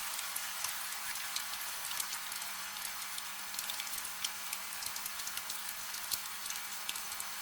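Steady gentle rain: an even hiss with a dense, irregular patter of individual drops ticking on a surface, and no thunder.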